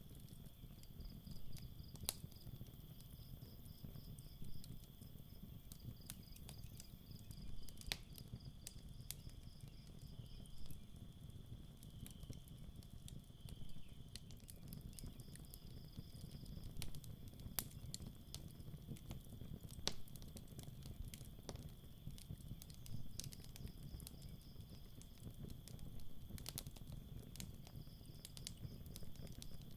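Campfire crackling with scattered sharp pops over a low rumble, while night insects such as crickets chirp steadily in high, pulsing trills that come and go.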